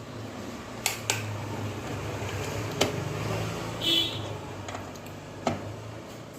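A few sharp clicks and knocks from handling the LED TV's power lead and plug, over a steady low hum, with a short high chirp about four seconds in.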